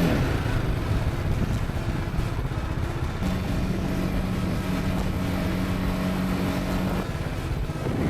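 Motorcycle engine running under way, with a steady engine note held for several seconds in the middle as the bike cruises at constant speed.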